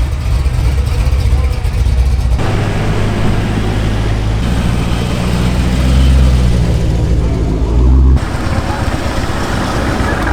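Car engines running: a low, steady engine note, then from about two seconds in a louder, deeper drone that stops abruptly near the end.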